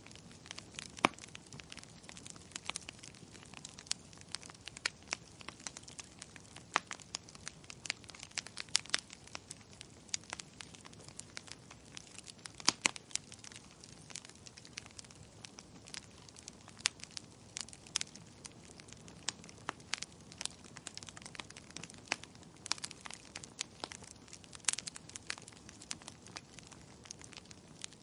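Fireplace fire crackling, with irregular sharp pops and snaps over a soft steady hiss.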